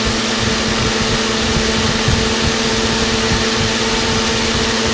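Chillout GF-55 personal fan running on its replacement Endurance Pro shaded-pole motor, spinning faster than stock. A steady motor hum sits under a loud, even rush of air, with an irregular low flutter where the airflow hits the microphone.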